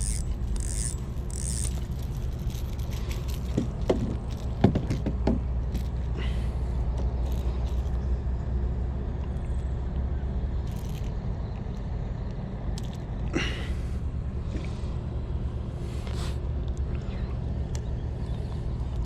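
Steady low rumble with scattered sharp clicks and brief scrapes, like handling noise on a body-worn microphone.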